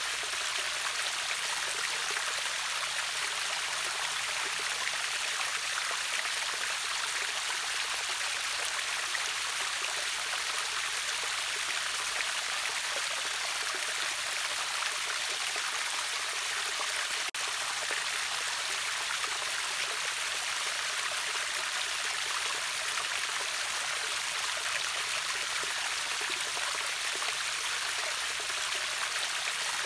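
River waterfall: a steady, even rush of falling and running water with a bright hiss.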